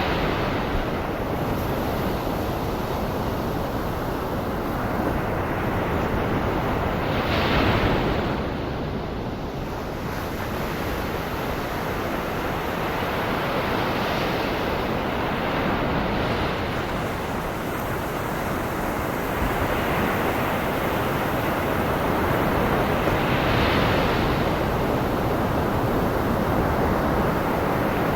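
Ocean surf blended with steady white noise: waves swell and break every six or so seconds over a constant hiss.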